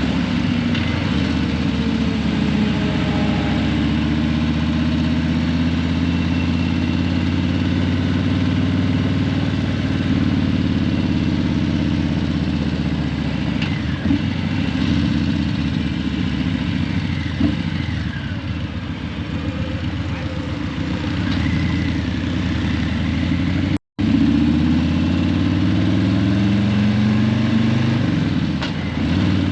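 Harley-Davidson Breakout 117's Milwaukee-Eight 117 V-twin running through Vance & Hines Eliminator 300 slip-on mufflers, turning over at low revs in slow traffic. Near the end it revs up as the bike pulls away, just after the sound cuts out for an instant.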